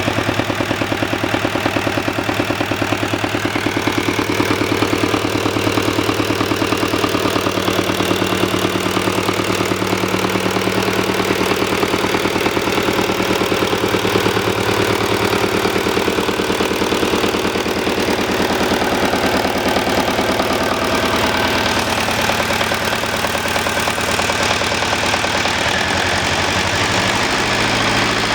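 Volvo Penta MD7B two-cylinder marine diesel running steadily with a rapid, even diesel knock; its note changes slightly near the end.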